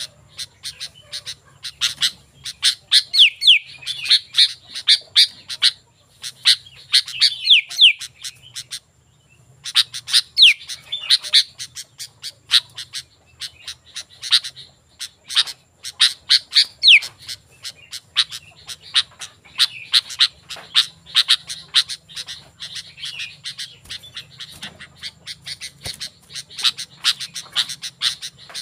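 Sooty-headed bulbul (kutilang) calling: a rapid, continuous run of sharp chirps and short down-slurred notes, with a brief pause about nine seconds in.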